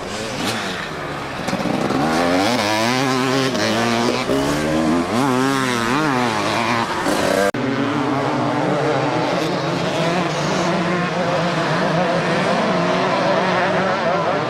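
Motocross bikes racing, their engines revving up and falling away as they accelerate and back off, with one sweeping rise and fall of pitch around the middle. The sound breaks off for an instant about halfway, then carries on.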